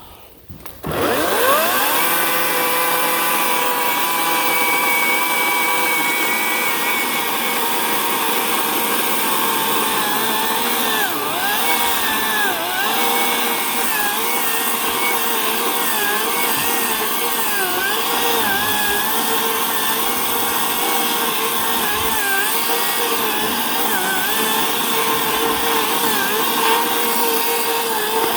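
Ryobi 18-inch electric chainsaw spinning up with a rising whine about a second in, then running steadily. Its pitch sags again and again as the chain bites into birch wood.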